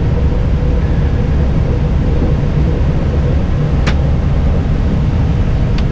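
Steady low rumble of an Airbus airliner's flight deck while taxiing, with a faint steady hum and a single sharp click just before four seconds in.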